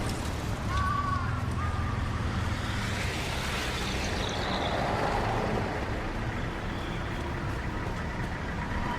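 City road traffic: car and truck engines running and passing, with a brief high chirp about a second in.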